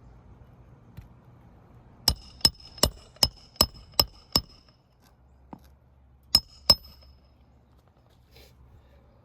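Hand hammer driving roofing nails into a shingle: seven quick, even metallic strikes with a bright ring, then a short pause and two more blows.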